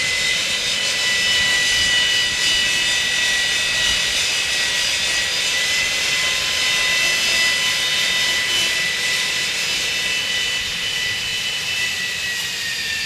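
AV-8B Harrier II's Rolls-Royce Pegasus turbofan running, a steady high-pitched whine over a jet hiss; the whine drops slightly in pitch near the end.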